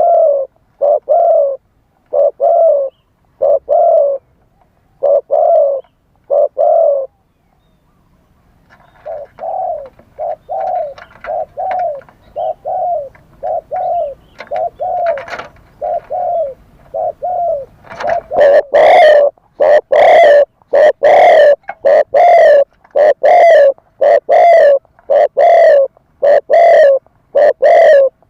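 Spotted dove cooing in a repeated series of short, low coos. After a brief pause near a third of the way in, the cooing resumes softer, then about two-thirds through it becomes much louder and harsher.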